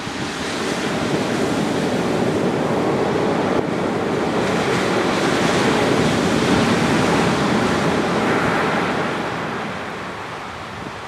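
Surf on a sandy beach in a somewhat rough sea: a wave washes in, swells to a peak about two-thirds of the way through, then recedes.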